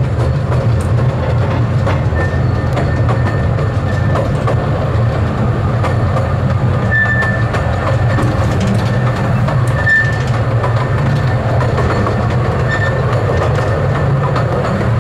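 Miniature railway train running along its track, heard from one of its open carriages: a steady low rumble from the wheels and running gear. The wheels give several brief high squeals as the train rounds a curve, the clearest about seven and ten seconds in.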